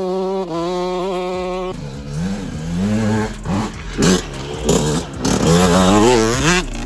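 Honda CR125R's 125 cc single-cylinder two-stroke engine held at high revs, then revved up and down over and over under the throttle from about two seconds in, with several rushes of noise as the revs peak.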